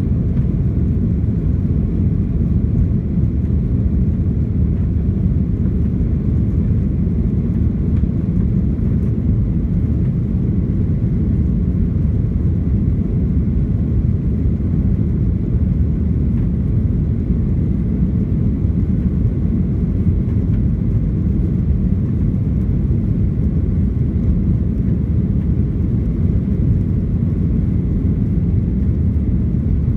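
Steady low cabin roar of a Boeing 737-800 airliner in flight, heard from a seat just behind the wing: the CFM56-7B turbofans and the airflow over the fuselage.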